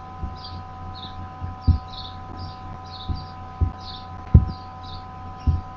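Small birds chirping again and again in the background, over a steady electrical hum of several fixed tones. Irregular low thuds come every second or so, the loudest about a second and a half and four seconds in.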